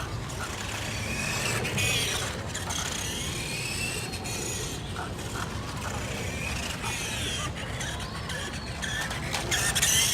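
Electric 380 motor and gears of a 1:5 scale RC Ducati motorcycle whining, the pitch rising and falling over and over as the throttle is worked; the motor is freshly repaired.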